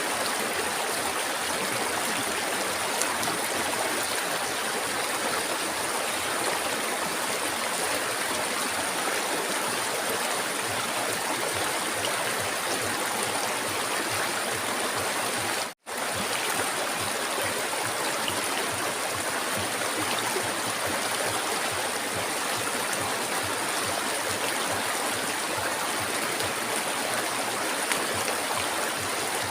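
River water flowing in a steady, even rush. It cuts out for an instant about halfway through, then resumes.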